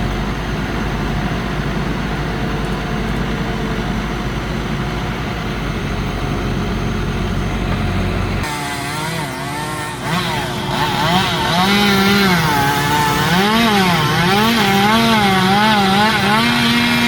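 A steady low engine hum, then from about halfway through a chainsaw running loudly, its pitch rising and falling again and again.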